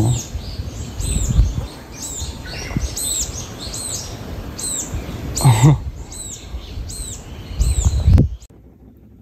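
A small bird chirping over and over, short high calls a little under two a second, over a low outdoor rumble; the sound cuts off suddenly about eight seconds in.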